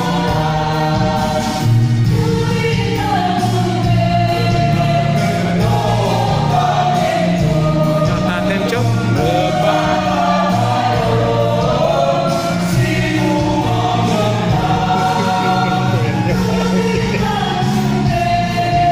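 A choir singing in several parts, holding long notes together over a steady low line.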